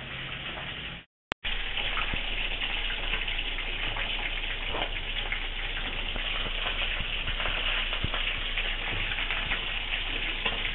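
Chicken and tofu frying in hot oil in woks: a steady sizzling hiss with scattered crackles and pops. It starts after a brief cut-out about a second in.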